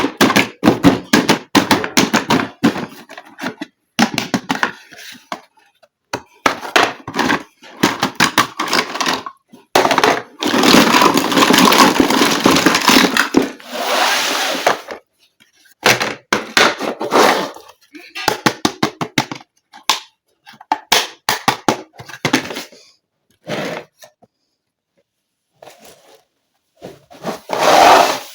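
Hands unboxing and handling a plastic toy kitchen play set: many sharp clicks and knocks of hard plastic pieces, with longer stretches of rustling packaging, the longest lasting about four seconds around the middle.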